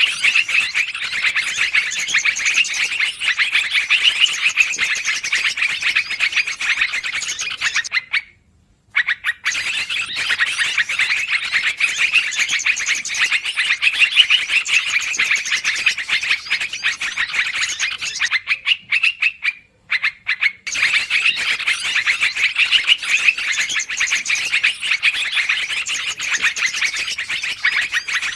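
Yellow-vented bulbuls (trucukan) chattering rapidly and without pause, agitated calls played as a bird-lure recording. It breaks off twice, briefly, as the recording loops.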